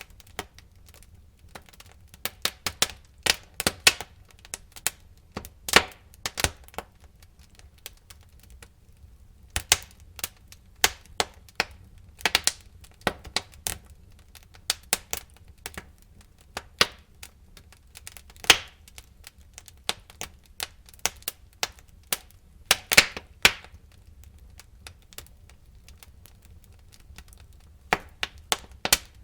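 Burning firewood crackling and popping in a fireplace: irregular sharp cracks, some in quick clusters, over a faint low rumble of the fire, with a quieter lull near the middle and another near the end.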